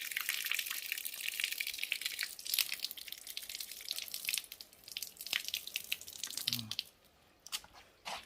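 Water trickling and dripping in a quick patter of small drops, which stops about seven seconds in, leaving a few scattered drips.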